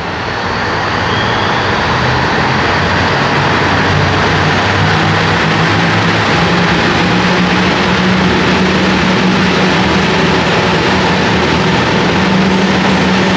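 JR Hokkaido KiHa 150 diesel railcar's engine running under power, its drone swelling over the first couple of seconds and then stepping up in pitch about five seconds in, over a broad rumble of the moving train.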